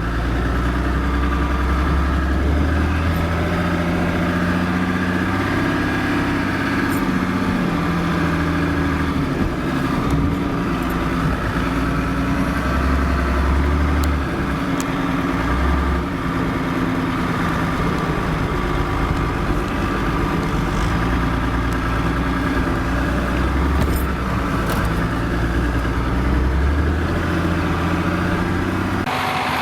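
GAZ-66 truck's diesel engine running under load, its revs rising and falling every few seconds as it drives off-road.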